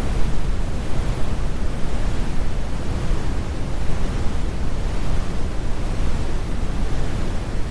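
Steady, deep brown noise: an even, rumbling hiss weighted heavily toward the bass, with no change or events.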